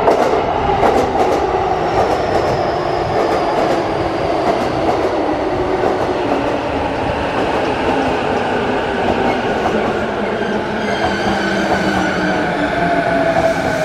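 E233-series electric commuter train running into the platform: a steady rumble of wheels on rail with sharp clacks over the rail joints early on. Near the end a whine falls slowly in pitch as the train slows for its stop.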